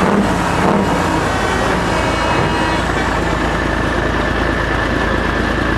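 Heavy truck engine with an open straight-pipe exhaust, running loud and steady, with a thin steady high whistle through the second half.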